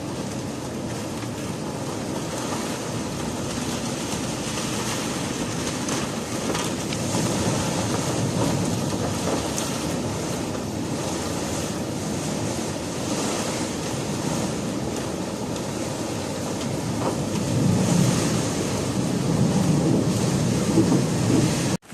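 Wind blowing against the microphone: a continuous low rushing that swells in stronger gusts near the end.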